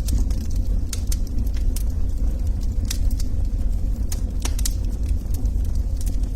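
Log fire crackling: scattered sharp pops and snaps, some in quick pairs, over a steady low rumble of burning.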